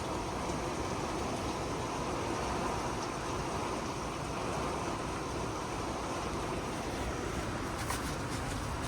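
Heavy thunderstorm rain pouring down steadily in gusty wind, an even rushing hiss, with a few faint ticks near the end.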